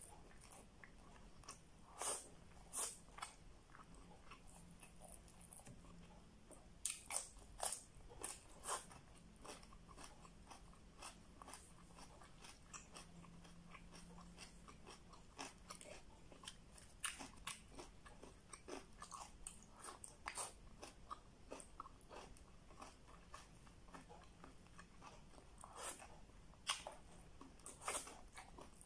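Close-up chewing of chicken and rice: irregular soft wet mouth clicks and smacks, several coming in quick clusters.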